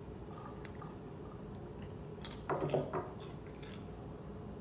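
Popcorn being chewed quietly, with faint clicks and a short cluster of louder crunching sounds a little past halfway, over a low steady room hum.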